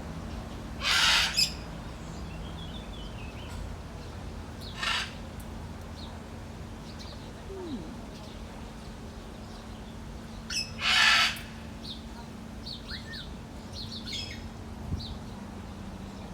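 Parrot squawking: two loud, harsh half-second screeches, one about a second in and one near eleven seconds, a shorter one around five seconds, and scattered soft chirps between.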